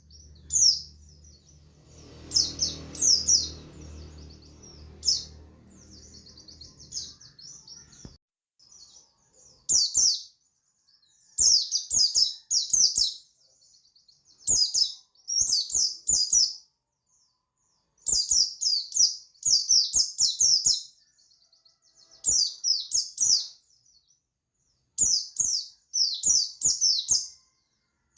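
A male pleci buxtoni white-eye singing its 'ngalas' song: rapid, high twittering phrases of a second or two each, repeated with short pauses between them. A low background hum runs under the song for the first eight seconds or so, then stops.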